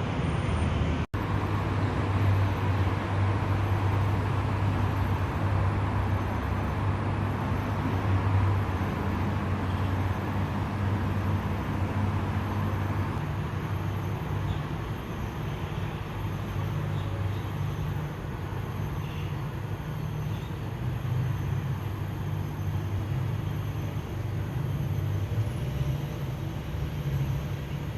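Road traffic noise dominated by a steady low engine rumble from a nearby vehicle, with a brief dropout about a second in.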